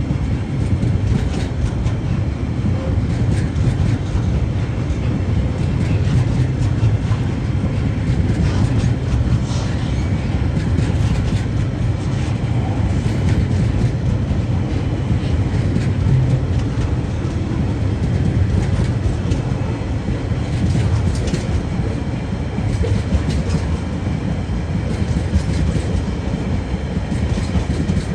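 Freight train wagons rolling past at steady speed: a continuous low rumble with the clickety-clack of wheels over rail joints.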